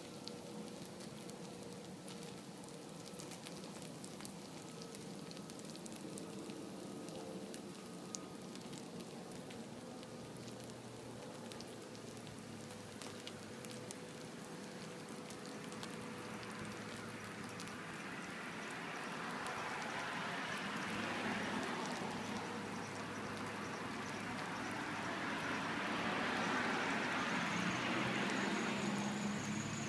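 Mass of about a thousand candles and melted wax burning together on a cake as one big fire, crackling and hissing, getting louder over the second half.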